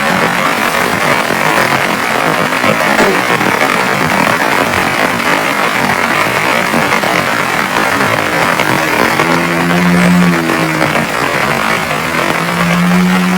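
Heavy rain falling steadily in a forest, a dense even hiss. A low hum sounds twice in the second half, once for about two seconds and again near the end.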